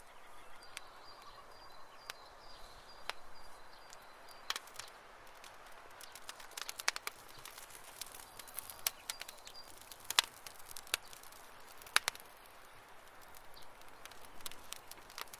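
Wood campfire crackling: scattered sharp pops over a soft hiss, the loudest pop about twelve seconds in. A faint, high, steady trill comes in early and stops after about four and a half seconds, then returns briefly around nine seconds.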